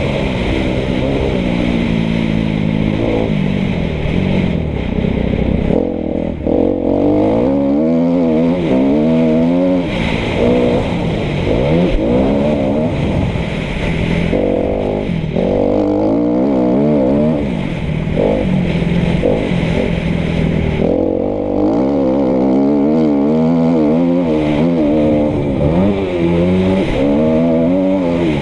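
2013 Kawasaki KX250F motocross bike's four-stroke single-cylinder engine being ridden hard, revving up and backing off again and again, its pitch rising and falling with throttle and gear changes.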